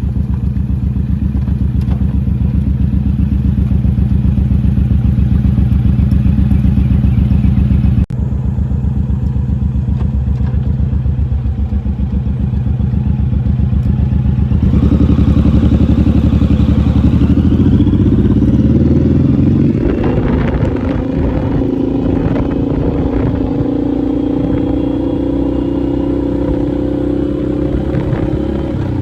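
Motorcycle engine running under way, with a short break about eight seconds in. Later the engine note changes in steps, then climbs steadily as the bike accelerates.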